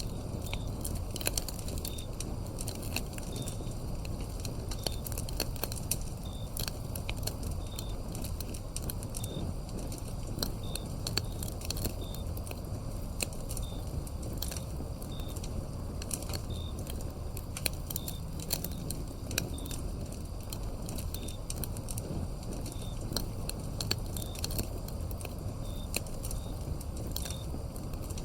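Wood fire crackling with irregular sharp pops over a steady low rumble, and a cricket chirping about every second and a half.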